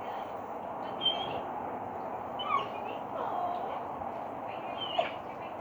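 A few short bird chirps scattered over a steady background hiss.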